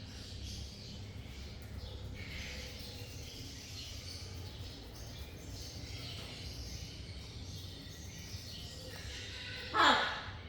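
Parrot making soft chirps and chatter, then one loud squawk near the end that falls in pitch.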